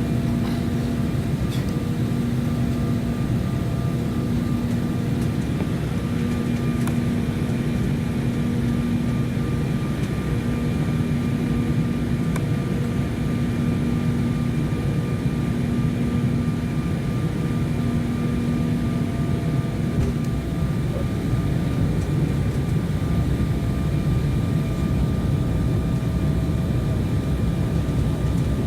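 Cabin noise of an Embraer 190 airliner in flight: the steady roar of airflow and its General Electric CF34 turbofan engines, with faint steady engine tones. A low hum comes and goes, then stops about two-thirds of the way through.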